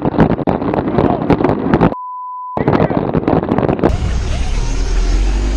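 Loud, rough noise on the camera microphone while riding, full of sharp ticks. About two seconds in, a steady half-second censor bleep drops everything else out. Near the end, wind buffets the microphone with a deep rumble.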